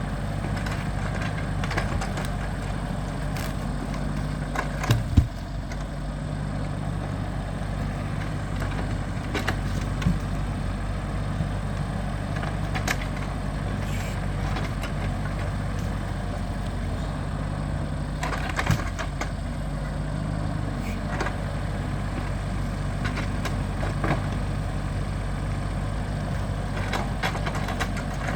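A heavy engine running steadily, with scattered sharp wooden knocks and cracks as raw logs are loaded; the loudest knock comes about five seconds in.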